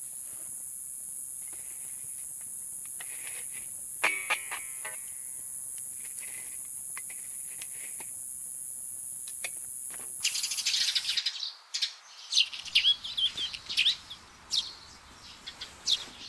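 Wild birds calling. For about the first ten seconds a few sparse calls sound over a steady high-pitched hiss. Then the sound changes abruptly to louder, busier birdsong with many quick chirps.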